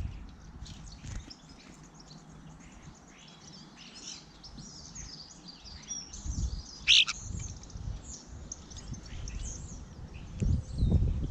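Small garden birds chirping and calling, many short high notes overlapping, with one loud, sharp call about seven seconds in. Low thuds or rumbles come in briefly past the middle and again near the end.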